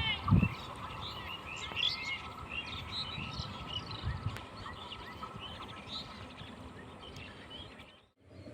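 Small birds chirping and twittering in rapid, overlapping calls over steady outdoor background noise, with a faint steady high tone underneath for most of it. A low rumble fades out in the first half-second, and the sound cuts out briefly near the end.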